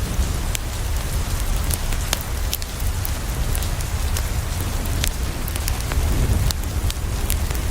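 Steady rain falling on a window, with scattered sharp crackles of a wood fire and a steady low rumble underneath.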